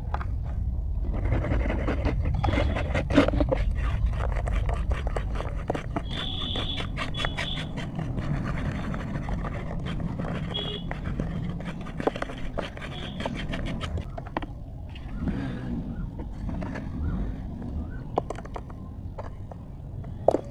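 ASMR crunching: dense, rapid crackling and crunching, thickest in the first two-thirds and thinning out later, over a steady low rumble.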